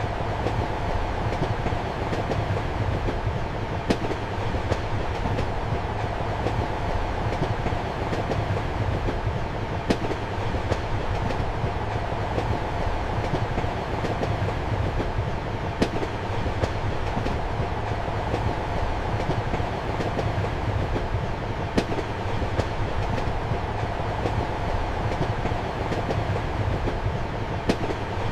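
Steady rumble of a moving passenger train heard from inside a compartment, with a low hum and a sharp click of the wheels over the rails about every six seconds.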